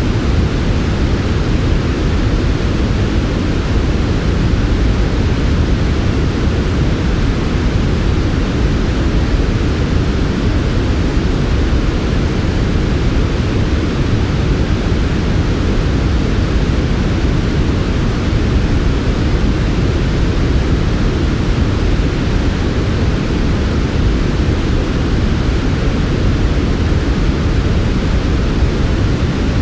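Steady, smooth noise for sleep, sold as soft white noise but weighted toward the low end: an even, deep hiss that never changes.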